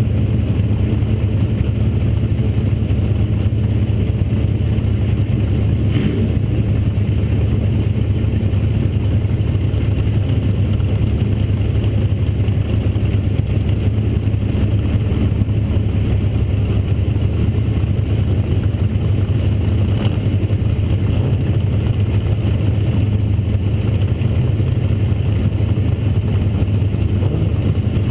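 Bomber-class dirt track car's engine idling steadily while the car sits stopped on track, heard from inside the cockpit.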